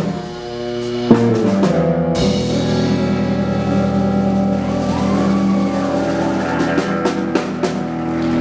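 Live band playing loudly, with drum-kit hits and fills. About two seconds in, the band holds a long sustained chord while the drums keep hitting over it.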